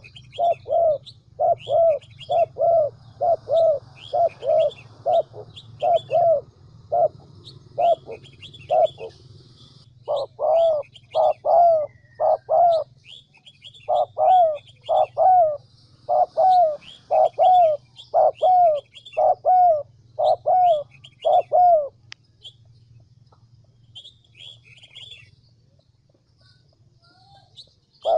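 Spotted dove cooing in a fast run of short, repeated coo notes, about two a second: a decoy call used to lure doves into traps. The cooing stops about three-quarters of the way through. Small birds chirp higher up, over a steady low hum.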